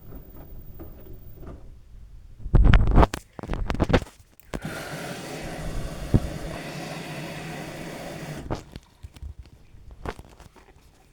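LG washing machine tumbling a load of wet towels: a few heavy low thumps as the sodden load drops in the drum, then a steady rushing noise for about four seconds that stops suddenly, followed by light clicks and knocks.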